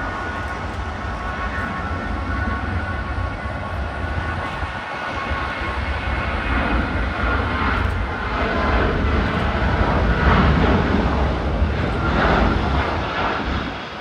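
Jet airliner engines at takeoff power as the aircraft departs, a steady jet noise with a deep rumble that grows louder to a peak about ten to twelve seconds in, with faint steady whining tones in the first half.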